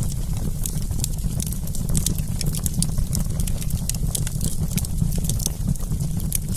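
Wood fire crackling, with dense irregular snaps and pops over a steady low rumble.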